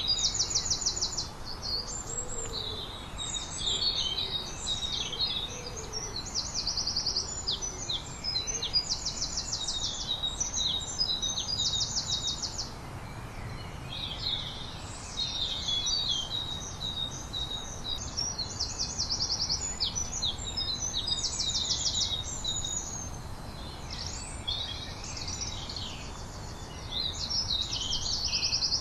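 Several songbirds singing, one repeating a rapid, high, buzzy trill of about a second every few seconds among other birds' chirps and short phrases. A few faint low calls sound in the first few seconds, over a steady low background rumble.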